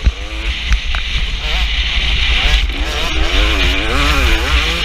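KTM 250 SX two-stroke motocross engine revving hard, its pitch rising and falling repeatedly as the bike is ridden.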